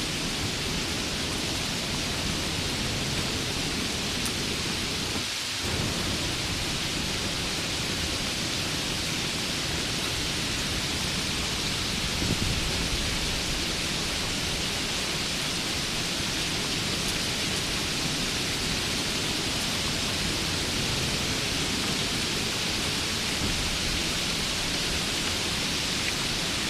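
Steady heavy rain, a dense even hiss, with a slight low rumble swelling briefly about halfway through.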